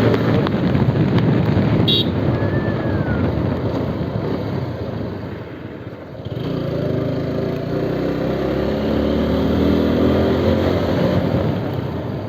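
Motor vehicle engine running with road noise. It dips about halfway through, then rises again with a steady engine note.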